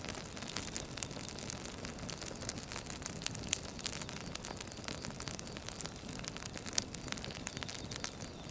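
Firewood burning, crackling with frequent irregular sharp pops over a steady hiss, one louder pop about three and a half seconds in.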